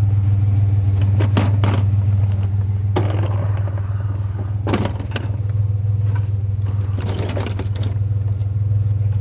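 Truck engine idling steadily, with a few sharp clanks and scrapes of scrap metal being handled, the loudest about five seconds in.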